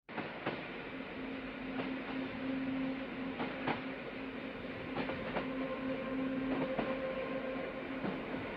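Train running on rails: a steady rumble with a low, even hum, broken by irregular clicks and knocks from the wheels and carriage.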